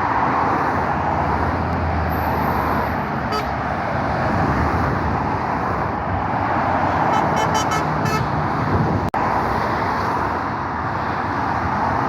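Steady road traffic on a busy dual carriageway: tyre noise and engine rumble from passing lorries and cars. About seven seconds in comes a quick run of five short horn toots.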